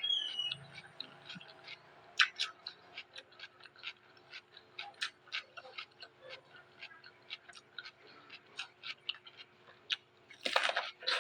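Close-up mouth sounds of someone chewing raw vegetables: irregular crisp clicks and crunches, a few a second, with a louder crunching bite near the end.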